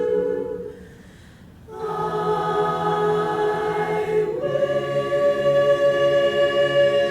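A women's a cappella barbershop chorus sings sustained chords. One chord fades away in the first second, a new chord comes in at about two seconds, and the harmony shifts to another held chord at about four and a half seconds.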